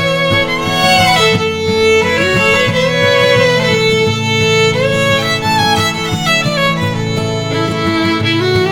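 Instrumental music: a fiddle playing a gliding melody over a steady accompaniment.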